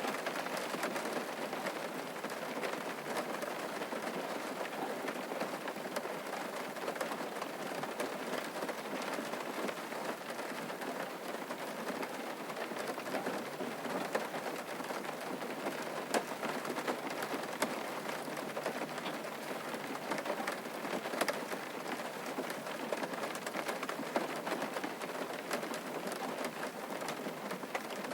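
Steady rain falling on a surface, with individual drops pattering sharply over the hiss.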